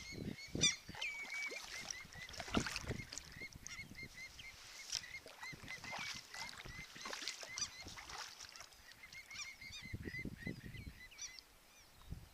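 A crowd of birds calling over and over with short, repeated notes, joined by the splashes of a kayak paddle.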